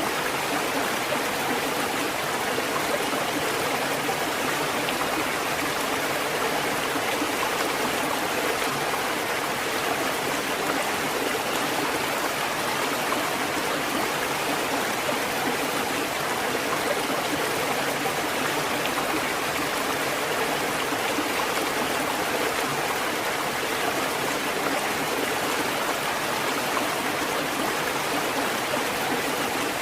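Water fountain running: a steady, unbroken splash and trickle of flowing water.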